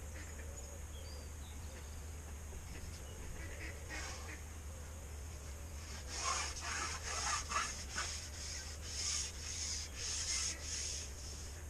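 A run of about eight short rubbing or scraping strokes, over a steady low hum.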